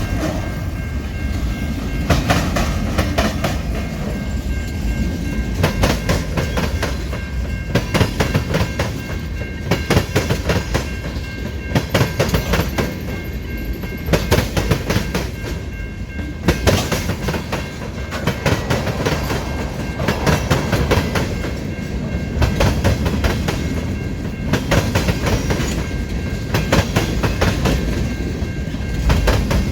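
A train's cars rolling past, with a steady rumble and the wheels clacking over rail joints in repeated groups every couple of seconds. A faint steady high tone runs beneath.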